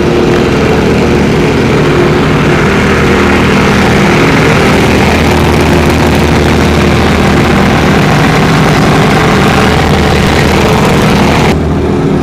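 Portable fire-pump engine running steadily at high speed, loud, with a broad rushing hiss over it. The hiss cuts off suddenly near the end while the engine keeps running.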